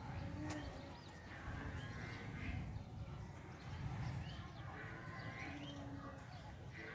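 Faint bird chirps, a few short calls scattered over several seconds, over a low background rumble.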